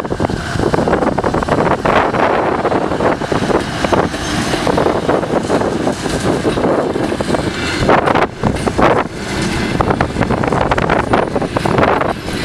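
Passenger coaches of an arriving train rolling past at close range, wheels running on the rails with repeated clacks over rail joints and points.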